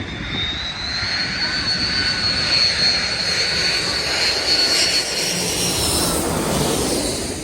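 Jumbo jet's engines spooling up to takeoff thrust: a high whine that rises in pitch over the first couple of seconds and then holds, over a loud rushing jet blast.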